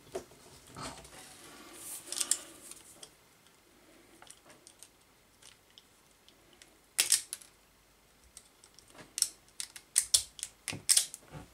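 Wire strippers clicking and snipping as insulation is stripped from the motor's wires: soft handling noise at first, then scattered sharp snaps, with one loud one about halfway through and a quick run of them near the end.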